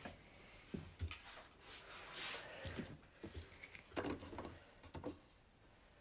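Faint, scattered light knocks and rustles of objects being handled and set down near the coffee machine.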